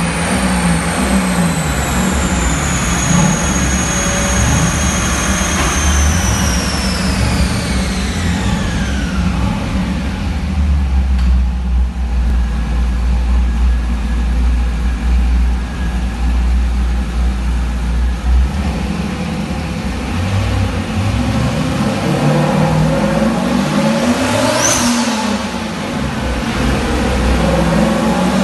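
Turbocharged LS1 V8 on a chassis dyno. A high whine falls steadily in pitch over the first several seconds as the engine winds down, and it settles to a low rumble. Then the revs climb again, with a rising whine, about three-quarters of the way in and again near the end.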